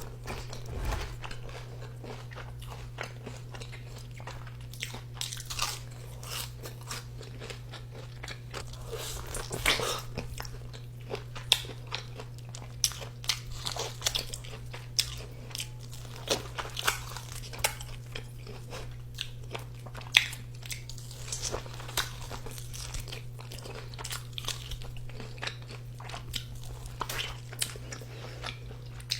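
Close-miked crunching and chewing of crunchy food, with many irregular crisp crunches from repeated bites over a steady low hum.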